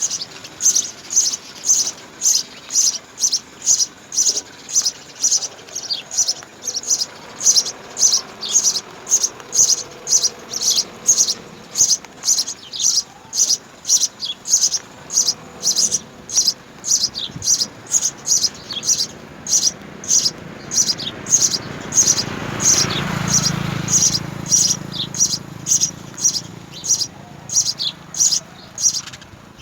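House sparrows chirping: short, high, repeated chirps at about two a second. A low rumble swells and fades about three-quarters of the way through.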